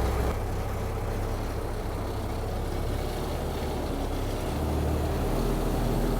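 The 1925 AutoCar Model 27K 3-ton truck's engine running steadily as the truck is driven, a low drone that shifts slightly in pitch near the start and again toward the end.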